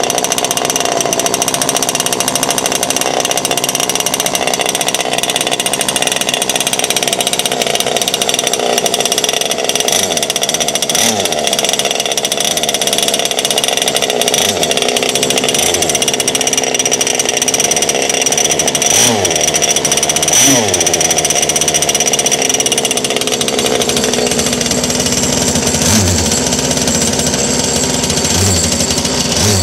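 Zenoah two-stroke gas engine of an RC speedboat running hard through a custom water-cooled quad exhaust, with a chainsaw-like buzz. Its pitch sweeps up and down several times, around ten, twenty and twenty-seven seconds in.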